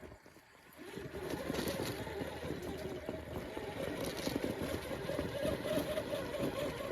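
A 1/6-scale RC rock crawler's electric motor and geared drivetrain whining under load as it crawls and climbs over rock, starting about a second in.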